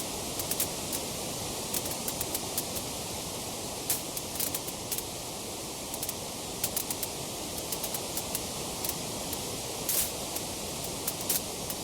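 Wood fire crackling in a fireplace: irregular sharp pops and snaps, several a second at times, over a steady hiss.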